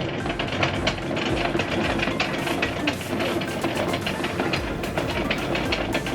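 Anchor chain paying out through the anchor windlass, a fast, irregular clatter of links running over the gypsy, with a steady hum underneath.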